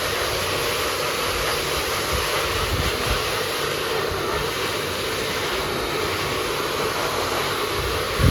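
Hot-air blow dryer running steadily with a rushing noise, drying a freshly water-washed electronic circuit board. A brief low bump near the end.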